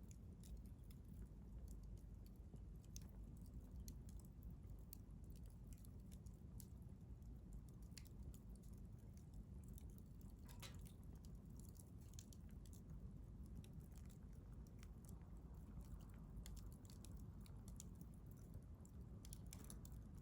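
Wood fire crackling quietly, with irregular sharp pops and ticks, a slightly longer crackle about halfway through, over a low steady rumble.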